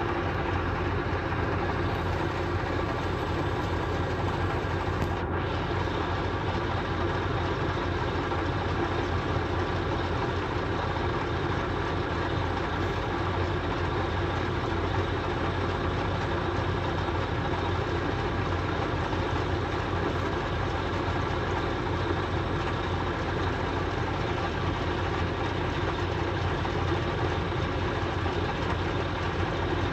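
A vehicle engine running steadily: a constant low rumble under an even hiss, with no change in pitch or level.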